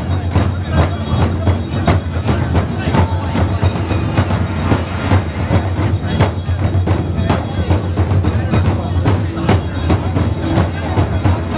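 Festival music with dense, rapid percussion strikes, such as drums and clappers, over a steady low hum.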